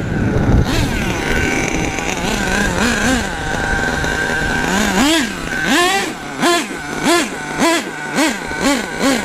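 Small nitro engine of an HPI Savage SS RC truck running, then from about five seconds in revved in quick repeated throttle blips, roughly two a second, each rising and falling in pitch.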